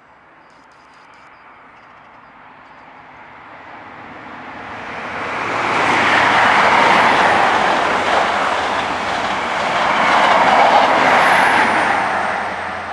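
InterCity 125 high-speed diesel train with a class 43 power car passing at speed: a rush of engine and wheel noise builds, is loudest twice, then fades. A faint high whine drops in pitch near the end.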